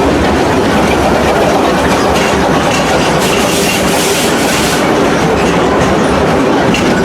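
Amusement-park railroad train running along the track, heard from a passenger car: steady rumble of the cars with wheels clicking over the rails. A brighter high hiss rises for about a second and a half near the middle.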